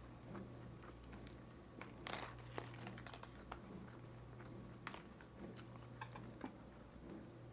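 Close-miked eating of a bulgogi lettuce wrap: faint chewing with scattered small crunches and mouth clicks, one louder crunch about two seconds in, over a steady low electrical hum.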